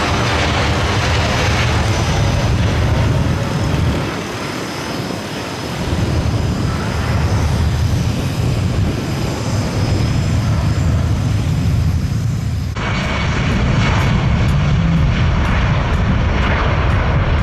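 Loud, steady roar of a C-17 Globemaster III's jet engines as the aircraft passes, with a sweeping change in tone in the first seconds. The sound changes abruptly about 13 seconds in, at a cut.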